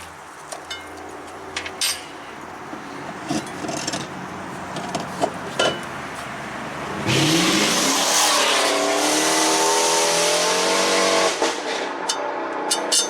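A sports car's engine revving hard as it accelerates past: a sudden loud rise in pitch about seven seconds in, holding for about four seconds, then fading away. Before it, a low steady hum and a few scattered clicks and knocks.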